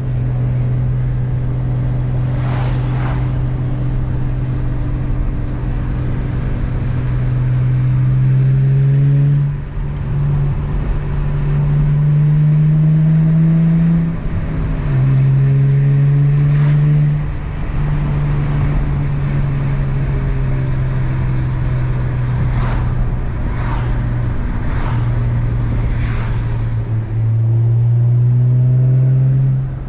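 Infiniti G35 coupe's 3.5-litre V6 through a Z1 Motorsports M Spec dual exhaust, driven hard with a six-speed manual. The engine note climbs under acceleration and drops sharply at each gear change, several times over, and pulls up again near the end.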